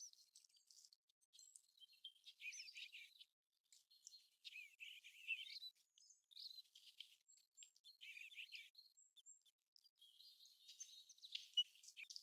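Faint American golden plover calls: clusters of short, high chirping and twittering notes, coming in irregular groups every few seconds.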